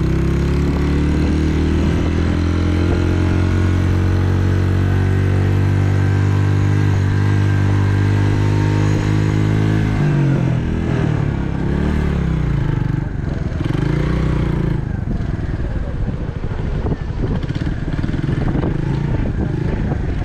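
A restored SYM Wolf motorcycle's engine runs. It rises in pitch over the first couple of seconds and holds steady until about halfway, then its pitch drops and rises unevenly as the revs change.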